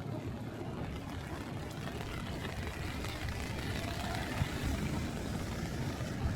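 Typhoon wind buffeting the microphone: a continuous, uneven low rumble with a steady hiss above it.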